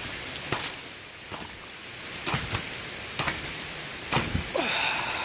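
Heavy rain falling steadily, with splashing footsteps through standing water at irregular intervals. Near the end comes a short call that falls in pitch.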